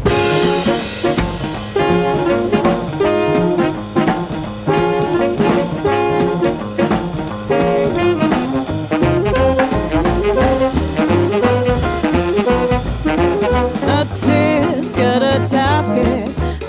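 Swing band playing an instrumental passage: clarinet, tenor saxophone and trombone playing short repeated riffs together over bass, guitar and drums, with a wavering high line joining near the end.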